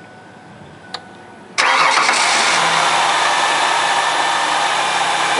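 Van engine started: after two faint clicks it catches suddenly about a second and a half in and then runs steadily, heard close up at the engine bay as a loud, even rush of noise while it drives the freshly fitted alternator.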